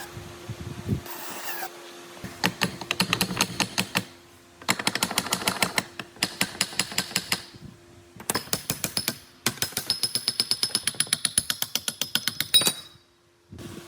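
Rapid metallic clicking from a workshop tool, about ten clicks a second, in several bursts of one to three seconds with short pauses between, ending on one louder click near the end.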